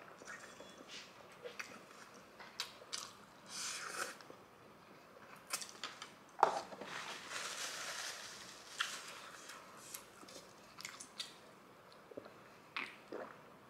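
Faint, close-miked chewing of a mouthful of ghost pepper instant noodles: scattered soft wet clicks and smacks, with a couple of longer breathy stretches.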